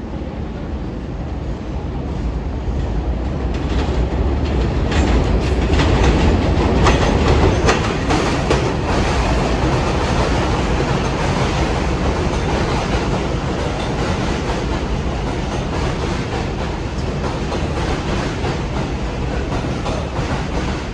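R142/R142A subway train running on the rails: steady low rumble with wheel clatter, growing louder about four to eight seconds in and then holding steady.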